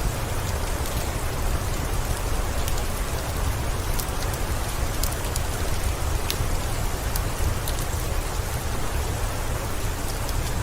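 Steady rain falling, an even hiss with a deep rumble underneath, and scattered faint sharp ticks on top.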